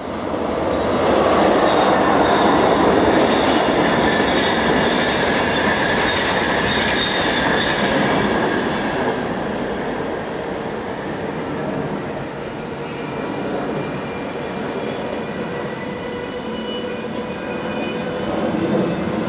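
Train running along the track, its wheels squealing in several thin, steady high tones over the rumble of the train. The sound is loudest over the first eight seconds or so, then eases off.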